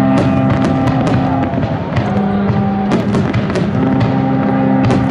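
Aerial fireworks bursting with many sharp cracks and pops, over music of sustained chords that shift every second or so.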